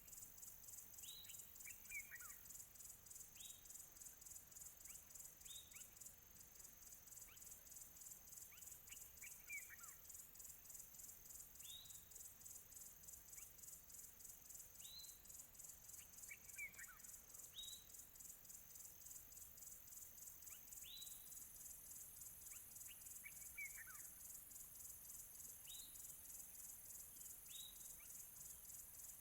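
Faint outdoor nature ambience: a steady, rapidly pulsing high-pitched chorus of insects such as crickets, with birds chirping over it every second or two in short sharp chirps and a few longer falling notes.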